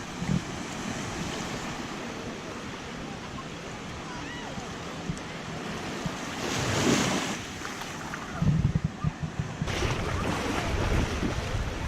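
Ocean surf washing ashore in a steady hiss, with one wave breaking louder about two-thirds of the way through. Wind buffets the microphone in gusts near the end.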